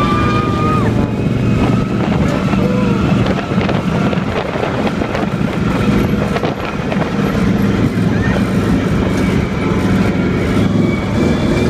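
Monster truck engine running with a steady low drone as the truck drives, with scattered knocks and rattles, thickest around three to seven seconds in.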